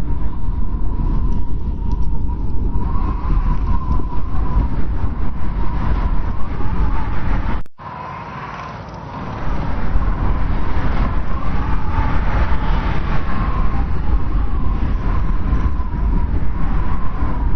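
Strong wind of a snowstorm blowing in a steady, heavy rumble with a constant high whistle running through it. About halfway it cuts out for an instant, then returns with less rumble for a couple of seconds before building back up.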